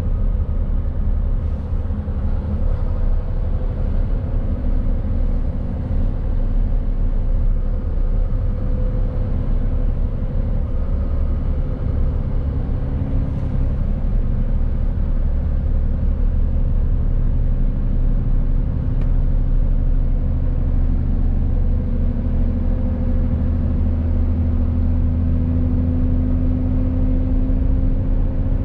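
Mercedes-Benz Actros truck laden to 19 tonnes, its diesel engine running steadily under way with a low rumble and road noise. The engine note grows stronger in the last several seconds.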